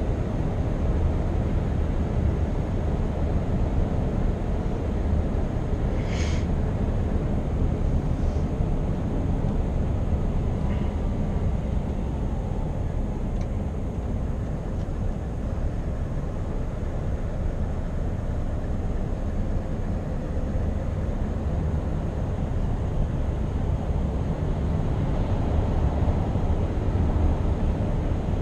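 Scania R520 truck's 16-litre V8 diesel running at cruise with tyre and road noise, a steady low drone that grows a little louder near the end. A brief click about six seconds in.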